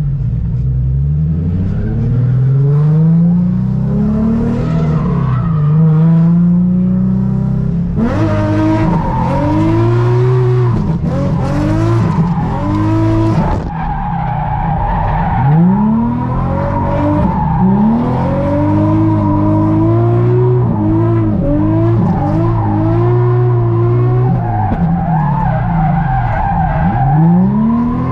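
Nissan 350Z's 3.5-litre V6 heard from inside the cabin on a drift run, revving up and falling back again and again as the car is thrown through the corners. Tyres are squealing and skidding, harshest from about eight to thirteen seconds in, with a steady high squeal carrying on after that.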